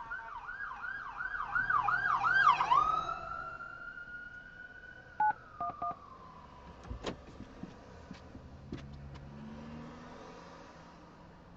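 Emergency vehicle siren in a fast yelp, about three sweeps a second and growing louder, then switching to one long tone that slowly falls in pitch and fades out. Three short beeps sound about five seconds in.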